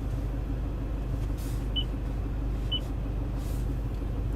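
Two short high beeps, about a second apart, from the Toyota Land Cruiser Prado's touchscreen infotainment system as menu items are pressed, over a steady low hum inside the car's cabin.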